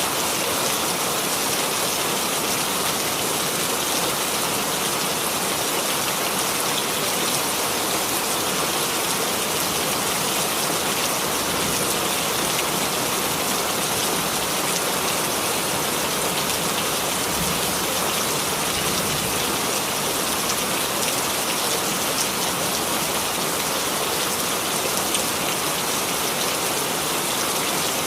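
Steady rainfall: an even hiss of rain with many small drops pattering on a surface, unchanging throughout.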